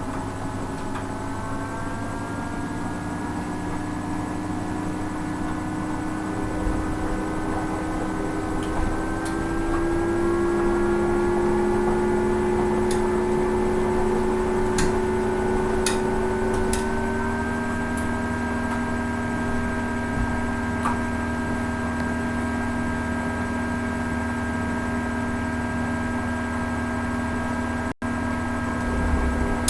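Hoover Ecologic 800 washing machine running on its rinse cycle, its motor whine rising in pitch in a few steps as the drum speeds up, then holding steady. A few light clicks come midway.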